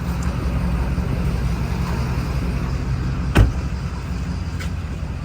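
Dodge Scat Pack's 6.4-litre HEMI V8 running steadily under way, a low rumble heard from inside the car with road noise. One sharp thump about three and a half seconds in.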